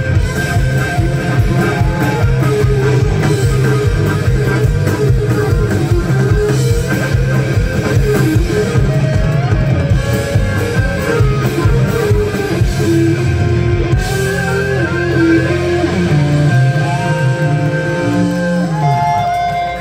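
Live rock band playing an instrumental passage: electric guitar over a steady drum-kit beat. About two-thirds through the drums drop out, leaving held and bending guitar notes.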